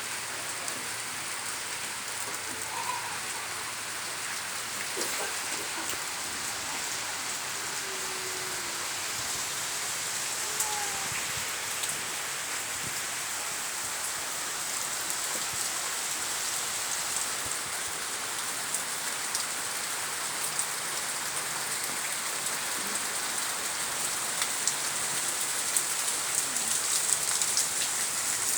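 Steady rain falling, with many individual drops ticking through an even hiss. It grows a little louder and heavier toward the end.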